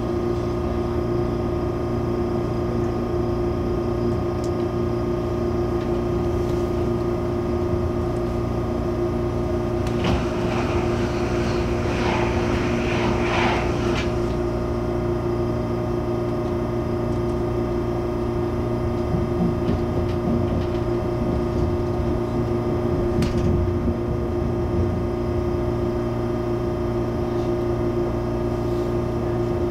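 Steady electrical hum of an MTR Airport Express CAF train's onboard equipment inside the carriage, made of several constant tones. A rougher hissing noise joins it for a few seconds about ten seconds in.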